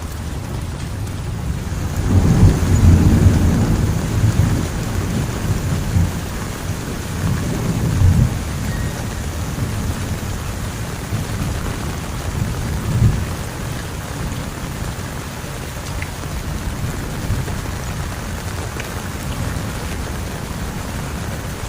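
Heavy rain falling steadily, with a long roll of thunder that breaks in about two seconds in, rumbles in several swells and fades away over the following ten seconds or so.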